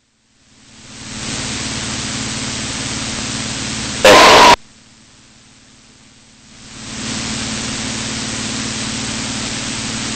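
Cessna 182 cabin noise heard through the headset intercom: a steady hiss over a low engine hum that fades in from silence as the intercom opens. About four seconds in there is a brief loud burst; after it the level drops low and fades back up about seven seconds in.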